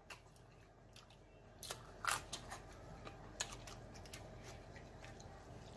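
Faint close-up chewing of boiled pig tails and pig feet: a scattering of soft mouth clicks and smacks.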